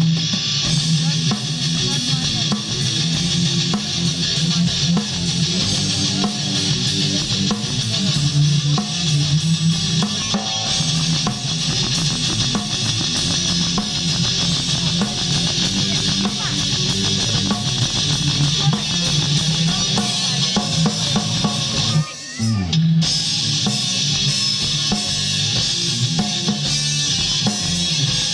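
Live rock band playing: drum kit with a heavy kick drum, and electric guitar. The music breaks off for a moment about three quarters of the way through, then comes back in.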